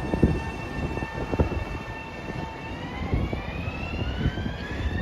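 Long Island Rail Road electric train moving through the station, its motors whining steadily and then rising in pitch about halfway through as it picks up speed, over rumbling and irregular clunks of wheels on the rails.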